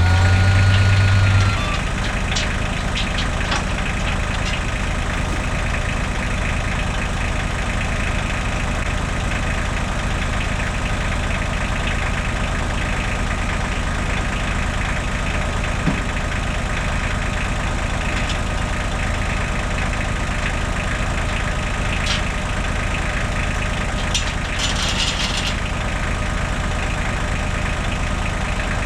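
Engine idling steadily, a little louder for the first second or so, with a few short clicks or clinks near the end.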